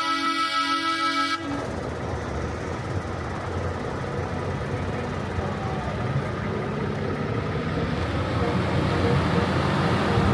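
A truck's air horn sounding a loud multi-note blast that cuts off suddenly about a second and a half in, followed by truck engines running as the parade passes, growing louder toward the end.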